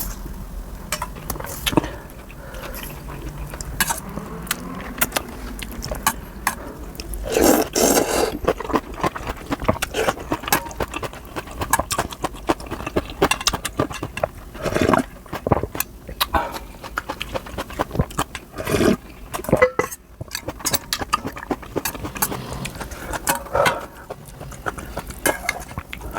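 Close-up eating sounds of Korean janchi guksu noodles and kimchi: noodles slurped and chewed, with clicks of utensils on the bowl and several louder slurps.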